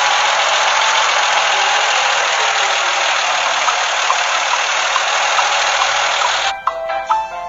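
Cement mixer truck engine sound effect running steadily, a dense, even noise. It breaks off briefly near the end, where music shows through.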